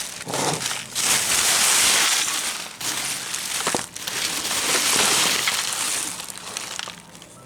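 Rummaging through trash: plastic bags and packaging rustling and crinkling in long swells, with a few sharp clicks.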